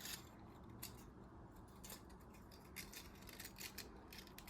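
Near silence with faint, scattered light clicks, a few a second, of small objects being handled.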